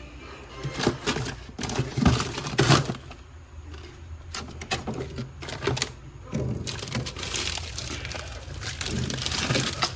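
Plastic crinkling and rustling, with irregular clicks and knocks of items being handled. The knocks are loudest about one to three seconds in, and the rustling gets denser past the middle.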